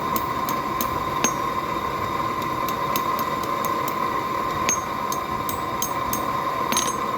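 Blacksmith's forge running steadily: an even rushing hum with a held tone, broken by scattered sharp ticks and crackles from the fire.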